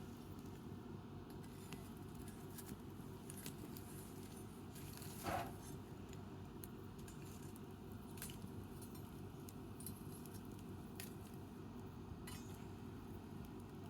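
Wood fire crackling: scattered small snaps and ticks from burning firewood over a steady low background noise, with one louder pop about five seconds in.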